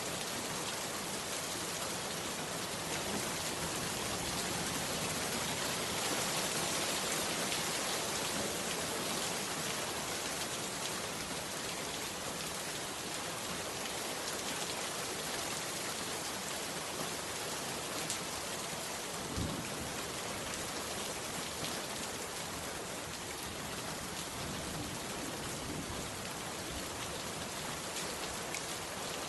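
Heavy rain falling steadily, a dense even hiss of drops, with one soft low thump about two-thirds of the way through.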